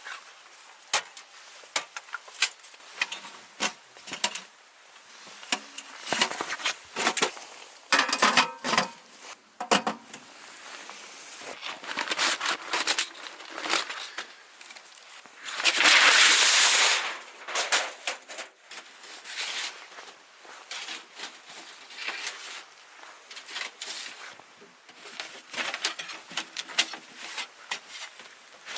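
Close handling noises: a busy string of clicks, knocks and rustles, with one loud rasping noise lasting about a second and a half around the middle.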